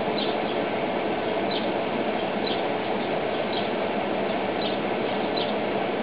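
Steady rushing noise with a faint even hum, over which a bird gives short high peeps about once a second.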